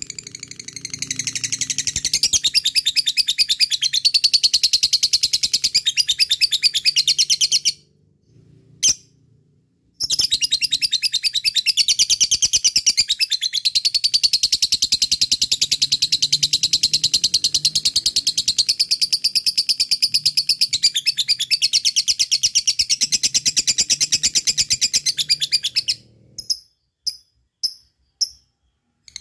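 Lovebird giving its long 'ngekek' chatter, a very fast run of high notes. It calls for about seven seconds, breaks off with a single note, then keeps going for about sixteen seconds more, and ends with four separate short chirps.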